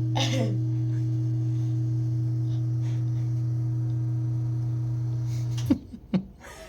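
A steady low electric hum with a fainter higher tone above it, holding level and then cutting off abruptly near the end.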